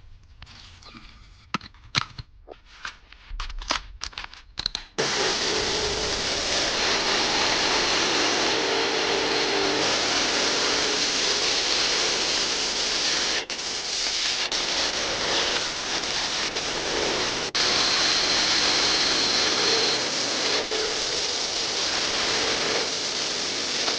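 A few scattered clicks and knocks, then from about five seconds in a loud, steady hiss of a high-pressure cleaning spray, with a few brief breaks.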